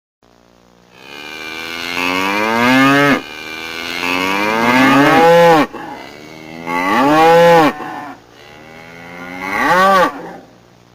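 Cow mooing four times, loud, long calls that each rise in pitch before breaking off.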